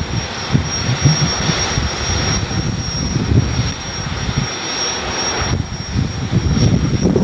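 Drag racing car's engine running loud and steady at the starting line, with no launch.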